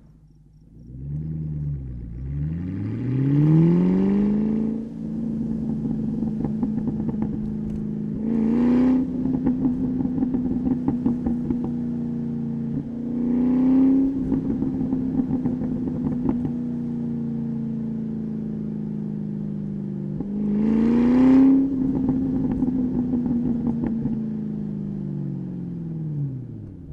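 2003 Ford Mustang SVT Cobra's supercharged 4.6 L V8 through a Bassani cat-back exhaust, pulling away from low revs with rising pitch. It then cruises at a fairly steady pitch, with three short louder bursts of throttle, and the revs fall as it eases off near the end.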